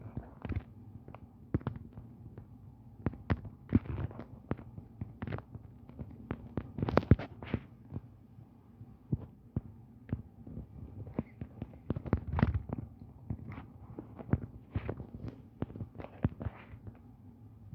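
Irregular clicks and soft knocks, a few a second, with a couple of louder thumps around the middle, over a faint steady hum.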